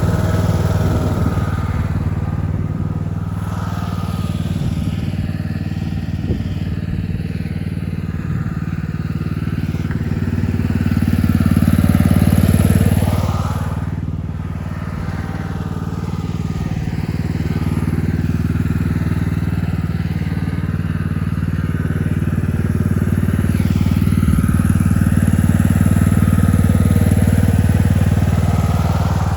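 Tractor engine running steadily with a low, even drone, getting louder about eleven seconds in, easing off a few seconds later, then swelling again near the end.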